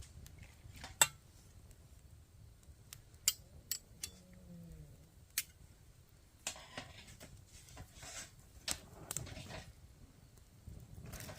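Wood fire crackling: scattered sharp pops, the loudest about a second in, with a few brief clattering handling noises in the second half.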